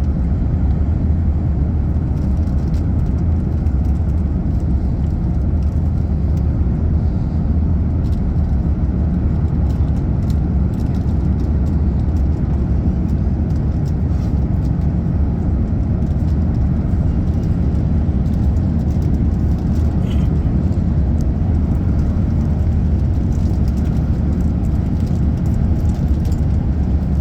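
Steady low rumble inside an Airbus A350-900 cabin in flight, from its Rolls-Royce Trent XWB engines and the airflow past the fuselage.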